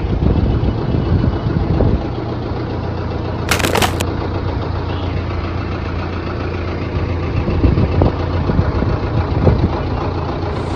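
A motor running with a steady low hum, interrupted by a brief sharp noise about three and a half seconds in.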